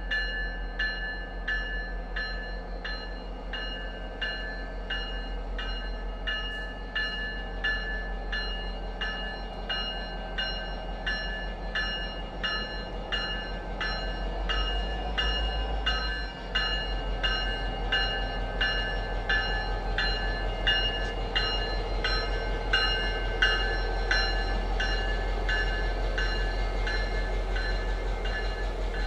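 A diesel-hauled passenger train passes, its locomotive's low rumble swelling about halfway through as it goes by, then the cars rolling past. Throughout, a bell rings steadily about twice a second without fading.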